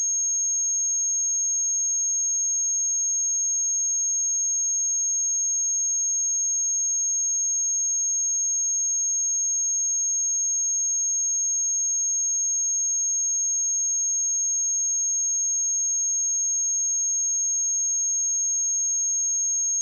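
A pure 6503 Hz sine-wave test tone, a single high-pitched steady whistle held at an even level.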